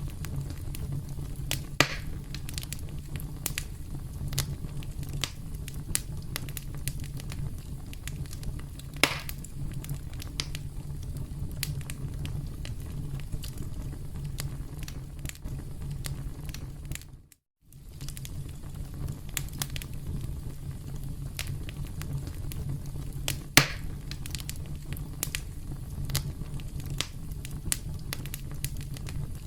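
Campfire crackling: a steady low rumble of burning wood with frequent sharp pops and snaps, a few of them louder. The sound cuts out completely for about half a second just past the middle, then resumes.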